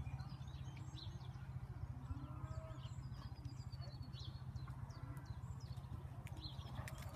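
Songbirds chirping in short calls over a steady low rumble.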